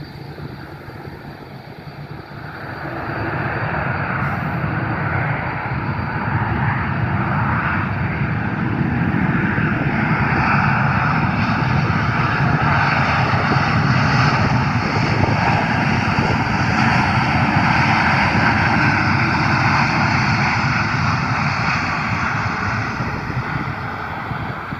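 A fixed-wing airplane's engines, rising about two seconds in to a loud steady roar and easing off near the end as the aircraft passes.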